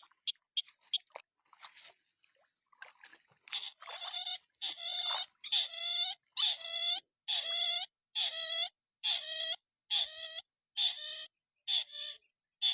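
A crake (burung tikusan) calling. A few short high pips come first, then from about three seconds in it gives a steady series of harsh, nasal calls, about one and a half a second.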